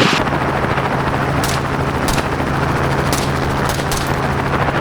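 Helicopter running steadily in flight, an even noise with a low hum, and a few short faint clicks scattered through it.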